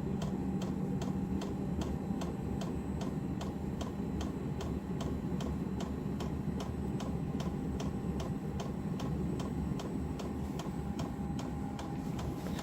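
Diesel air heater's fuel dosing pump knocking in a steady rhythm of about three ticks a second, over the heater's steady low hum. The knocking is heard while the heater is firing up and warming, and the owner says it won't be heard once it is running.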